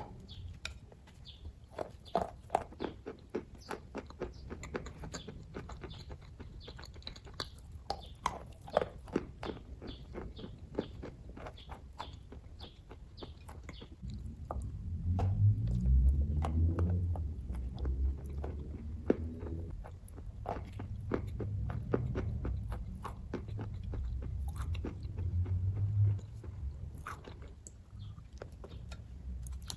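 Close-up chewing and wet mouth clicks of someone eating kaju katli, soft cashew fudge, with many short smacks and clicks. From about halfway through, a louder low hum runs for some ten seconds under the chewing.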